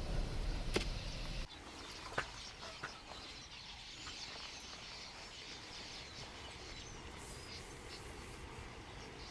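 A large flock of birds calling together, many overlapping high chirps and twitters. A low rumble underneath cuts off suddenly about a second and a half in.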